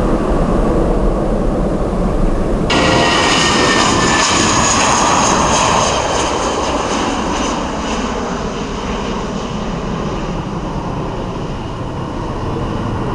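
Jet airliner's engines running at high thrust as it passes, a broad rush with a whining tone over it. About three seconds in the sound switches abruptly to a louder, brighter jet noise with a high whine, which then slowly fades away.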